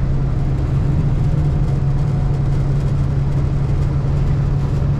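Kenworth T680's PACCAR MX-13 diesel engine running at a steady speed with road noise, heard from the truck cab as a constant low hum.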